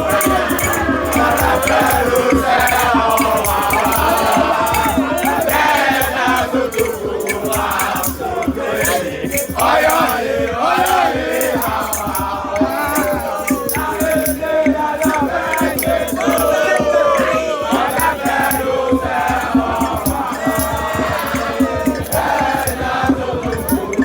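A crowd of voices singing a chant together, with rattles shaken along in a steady rhythm.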